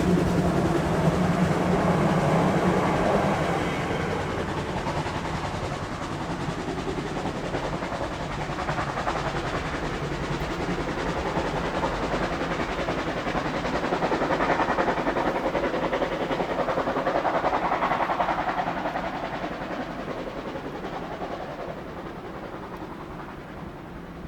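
Steam locomotive 35 1097 and its coaches working uphill and moving away, a continuous rolling rumble of the train on the rails that swells briefly in the middle and then fades gradually.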